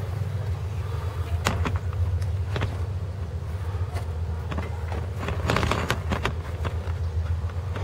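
1985 Oldsmobile Cutlass Salon's engine idling steadily with a low, even hum, heard close under the open hood. A few brief clicks sound over it, mostly near the middle.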